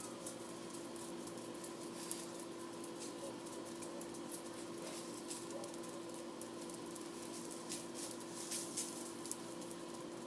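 American Hairless Terriers' claws clicking and pattering on a hard floor in scattered light ticks, busiest near the end, over a steady electrical hum.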